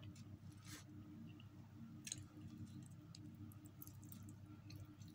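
Faint chewing of a mouthful of instant noodles, with a few small clicks and crackles, over a steady low hum.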